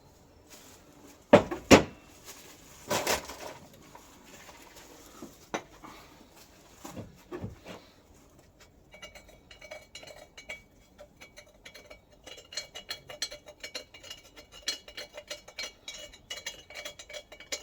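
Metal knocking and clinking from handling metal parts and tools on the engine's cast-iron fuel tank. Two loud knocks come close together about a second and a half in, with another near three seconds. From about nine seconds a fast run of light ringing clinks follows and grows busier.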